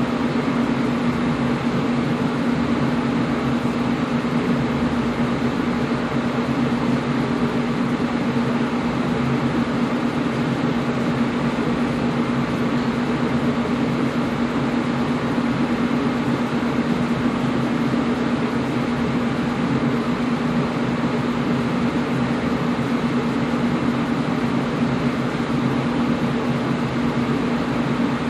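Air conditioner running steadily: an even rushing noise with a steady hum under it.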